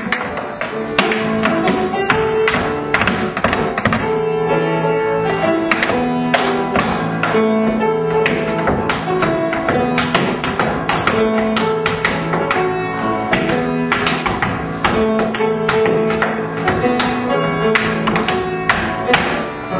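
Tap dancing to instrumental music: many quick, sharp taps of tap shoes over held instrumental notes.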